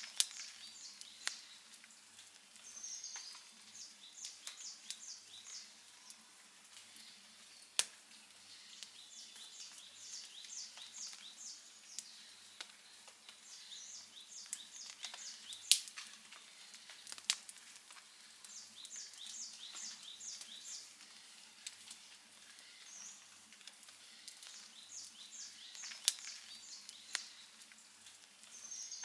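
Outdoor wood campfire crackling, with scattered sharp pops; the loudest come about 8, 16, 17 and 26 seconds in. Behind it, a quick series of short high chirps repeats every few seconds.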